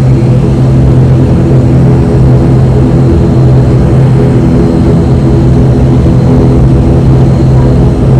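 ATR 72-500's twin turboprop engines and propellers running steadily, heard inside the passenger cabin: a loud constant drone with a deep propeller hum.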